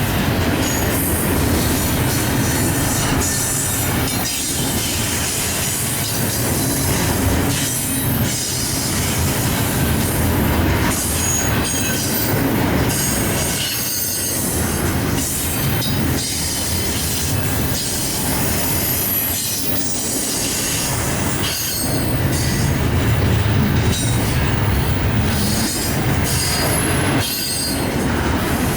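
Union Pacific train's cars rolling past, steel wheels running continuously on the rails, with brief high-pitched wheel squeals coming and going.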